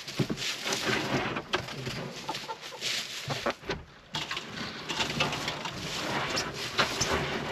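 Hens clucking, mixed with frequent short clicks and rustling.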